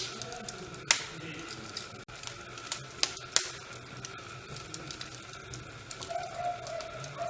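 Fire crackling: irregular sharp pops and snaps over a steady hiss, the loudest pops about one second and three and a half seconds in. A thin steady whistling tone comes in about six seconds in.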